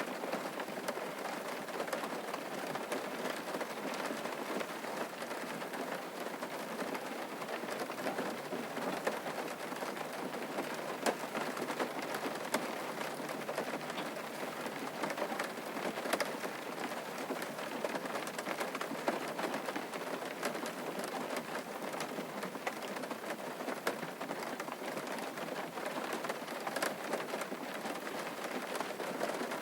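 Steady rain falling on a surface, a dense even hiss with many separate drops ticking through it.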